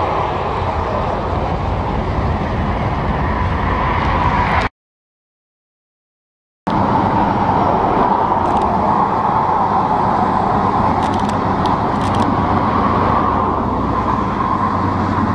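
Double-stack intermodal freight train rolling past below, a steady rumble of steel wheels on the rails with a few faint clicks. The sound cuts out completely for about two seconds a third of the way in, then resumes as before.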